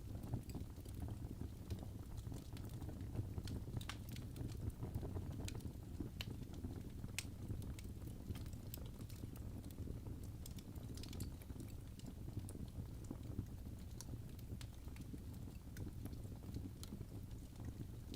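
Birch logs burning in a fireplace: a steady low rumble of flame with scattered sharp crackles and pops, busiest in the first half.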